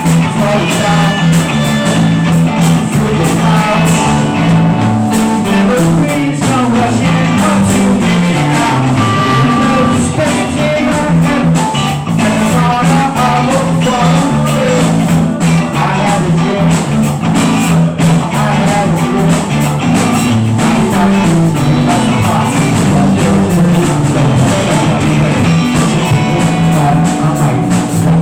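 Rock band improvising: electric guitar and bass over a drum kit playing a steady beat.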